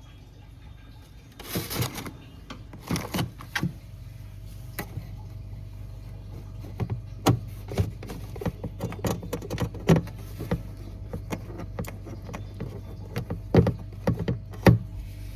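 Steady low hum of a running refrigerator, with repeated sharp clicks and knocks of its parts being handled, louder clusters near the start, the middle and near the end.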